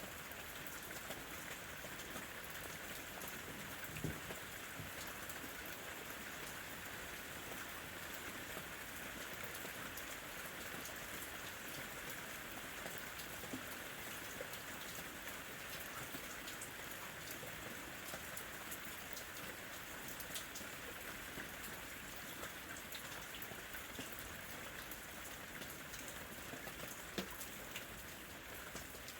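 Steady rain falling, with scattered individual drips on top; one sharper drop about four seconds in and another near the end.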